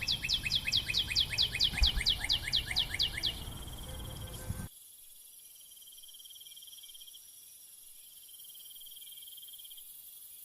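A rapid trill of high chirps, each falling in pitch, about six a second for some three seconds, over a faint steady high whine. A few seconds in, the trill stops and only a faint high hum remains.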